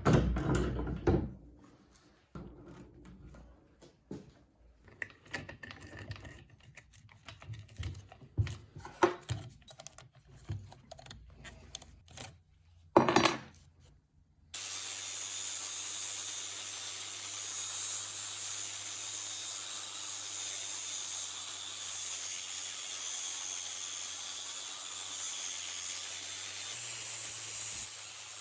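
Knocks and clatter of a heavy metal object and tools being handled. About halfway through, a steady rushing hiss of air with a low hum under it starts and keeps going, stepping up slightly near the end.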